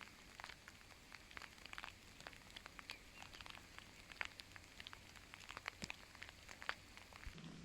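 Rain dripping and pattering: scattered, irregular drops ticking over a faint steady hiss.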